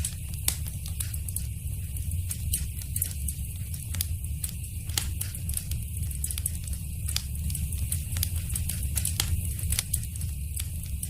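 Wood fire burning in a fireplace, crackling with frequent sharp, irregular pops over a steady low rumble of flame.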